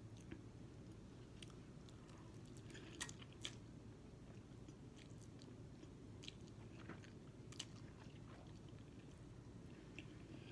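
Faint chewing and biting of ramen noodles, with scattered soft mouth clicks over a low steady room hum.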